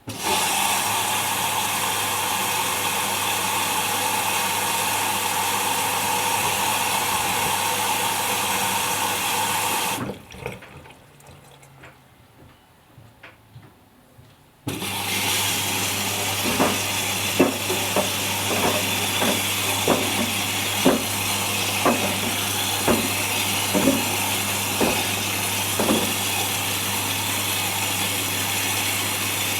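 Whirlpool Indiana 1400 washing machine taking in water: a steady rush of water with a low hum. It shuts off for about five seconds partway through, then starts again, and light knocks come about once a second as it runs.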